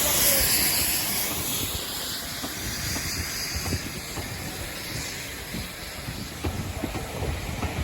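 Steam locomotive letting off a hiss of steam that fades away over the first couple of seconds, over a low rumble with scattered clanks from the train.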